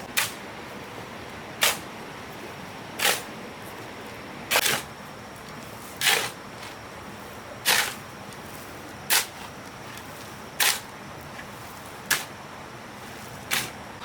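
Ten regular scraping strokes of a hand tool working a sand and cement mix, about one every second and a half.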